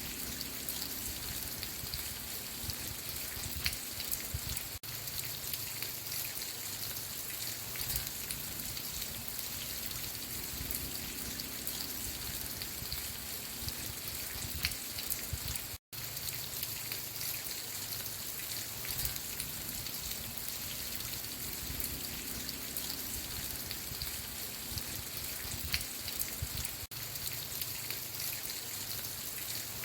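Steady rain falling, with individual drops ticking on a surface over an even hiss. The sound cuts out for a split second about halfway through.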